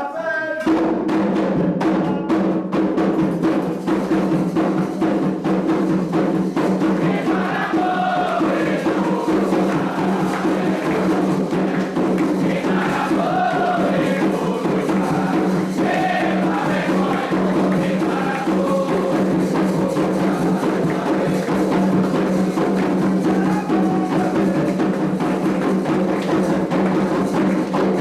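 Candomblé ritual music: atabaque hand drums played in a steady, dense rhythm, with a group singing a chant over them. The drumming comes in at the start, right after a lone voice.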